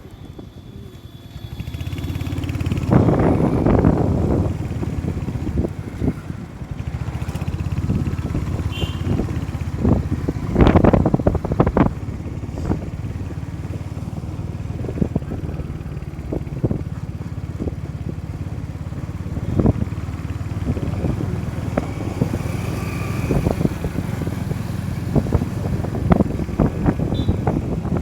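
Motorcycle engine running steadily on the move, with louder swells a few seconds in and again around the middle.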